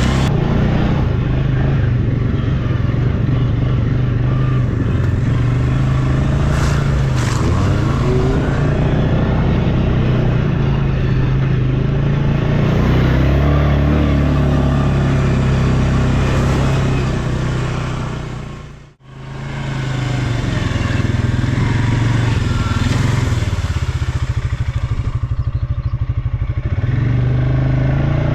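ATV (quad bike) engine running under way, its pitch rising and falling with the throttle. The sound drops out briefly about two-thirds of the way through, then comes back.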